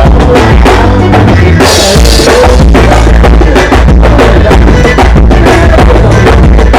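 Live band playing loud during a soundcheck, the drum kit to the fore with bass drum and snare hits, and a cymbal crash about two seconds in.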